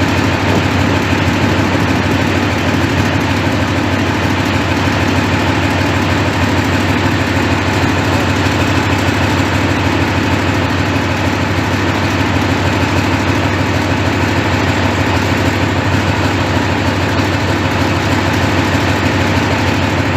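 Tank's large diesel engine idling steadily, a deep, even running sound with no change in revs.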